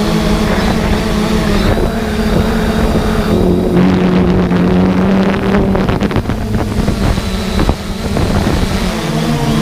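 3DR Solo quadcopter's motors and propellers humming steadily, the pitch wavering as the motors adjust, and holding steadier in the middle. Wind noise on the onboard microphone.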